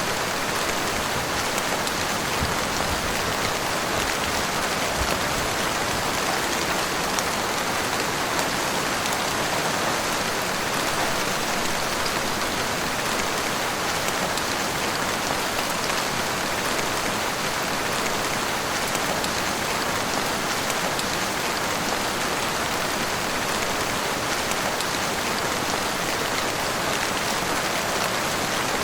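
Heavy rain falling steadily, a dense, even patter of drops on surfaces with no letup.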